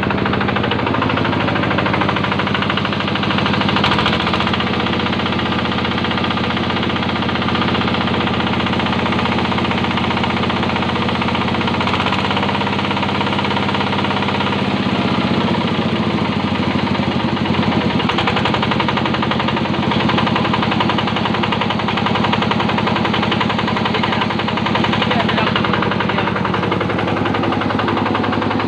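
Yanmar diesel engine running with a rapid, knocking beat, its speed shifting slightly a few times.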